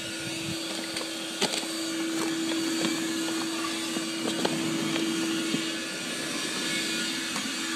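A steady machine hum over a faint hiss, with a few light clicks, the clearest about a second and a half in.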